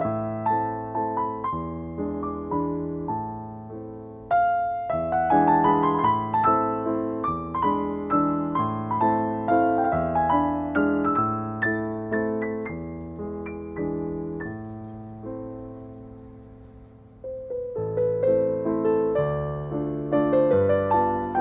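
Background music: soft, gentle solo piano playing a slow melody over chords, with notes left to ring. About two-thirds of the way through it fades away, then a new phrase begins.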